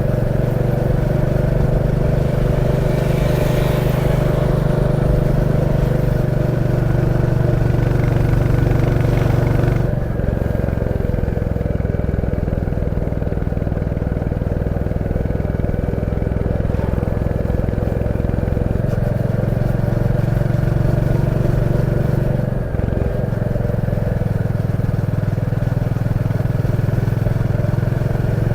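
Royal Enfield Classic 350's single-cylinder engine and exhaust running steadily under way, heard from the rider's position, with two brief dips in level about ten seconds and twenty-three seconds in.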